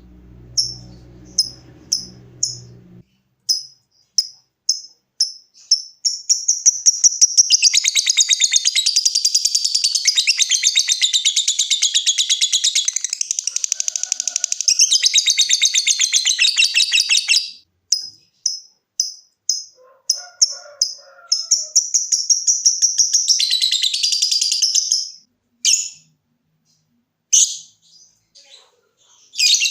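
Lovebird song: short, sharp, high chirps repeated about twice a second (the 'ngetik' ticking call), breaking into a long, fast, continuous chattering trill (the 'ngekek') lasting about ten seconds. It drops back to spaced chirps, gives a second shorter trill, and ends with scattered chirps.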